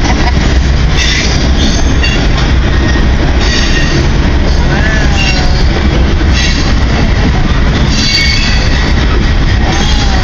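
Long CN train rolling past close by: a steady heavy rumble of wheels and cars on the rails, with high wheel squeal coming and going over it.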